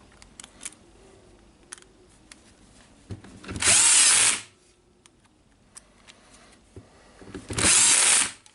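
Cordless drill-driver driving screws in two bursts of about a second each, with small clicks of handling between them.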